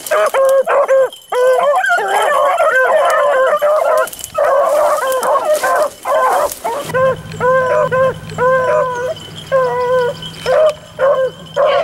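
A pack of beagles baying while running a rabbit: many bays overlap at first, then thin to a steadier run of single bays about two a second.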